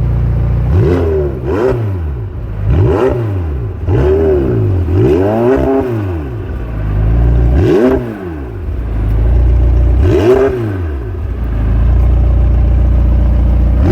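McLaren 720S twin-turbo V8 revved in a series of short blips, its pitch rising and falling back each time, with a steady low engine sound between them.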